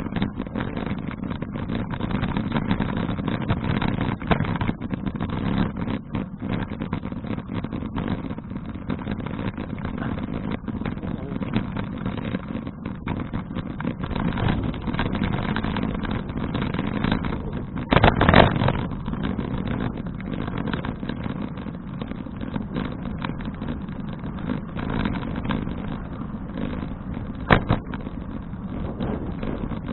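Wind and road noise on a bicycle-mounted action camera while riding a folding bicycle, a steady low rush with frequent small rattles. There is a louder jolt about 18 seconds in and a sharp knock near the end.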